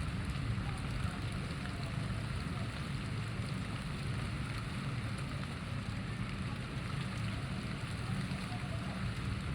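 Steady rain noise during a thunderstorm over a constant low rumble, with no separate thunderclap.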